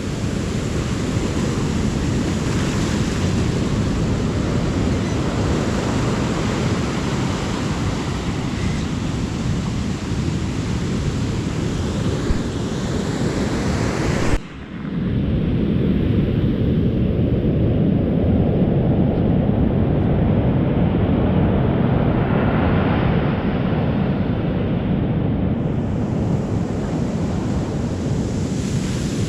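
Ocean surf washing onto a beach, with wind rumbling on the microphone. About halfway through, the sound drops out for a moment and comes back with the same surf and wind.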